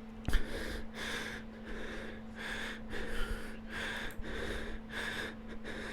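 A person breathing quickly and rhythmically through the nose, about two breaths a second, over a faint steady hum.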